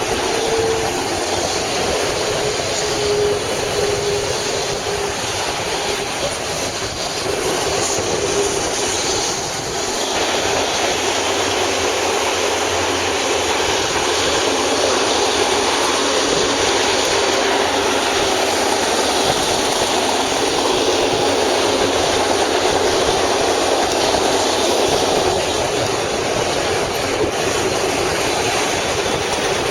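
BNSF train passing at speed, about 60 mph: a loud, steady rush and rattle of cars rolling by. A single tone slowly falls in pitch over the first several seconds.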